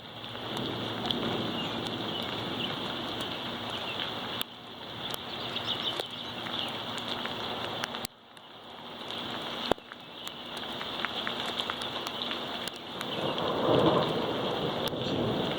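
Heavy thunderstorm rain falling steadily. A rumble of thunder swells up near the end.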